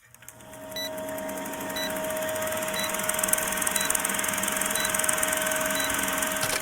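Countdown timer beeping: six short high beeps, about one a second, over a steady hiss with fine crackle that grows louder over the first two seconds.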